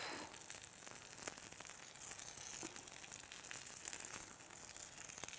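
Omelette frying in a pan over a gas flame: a faint, steady sizzle with small scattered crackles.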